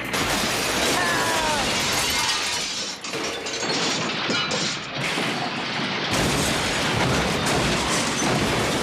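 Cartoon crash sound effect: a long, loud run of fine china shattering and crashing that goes on for several seconds, with a short falling tone about a second in.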